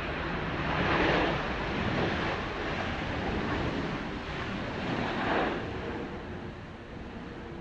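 Jet airliner engine roar mixed with strong gusty wind buffeting the microphone: a broad noisy rush that swells about a second in and again around five seconds.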